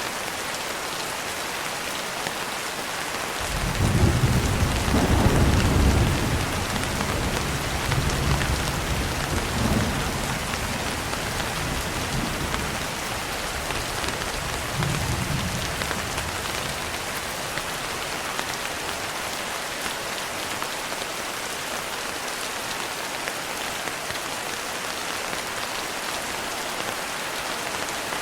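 Steady rain pattering on a window, with a deep roll of thunder that breaks in suddenly a few seconds in, swells again twice and rumbles away about halfway through.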